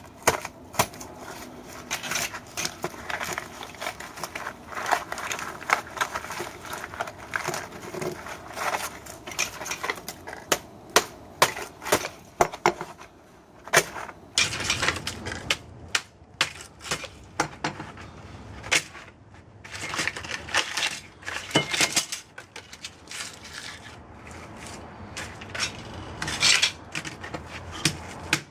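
Irregular sharp metal clanks, clinks and taps of tools and scrap metal as microwave oven transformers are broken down for their copper windings, some hits much louder than the rest.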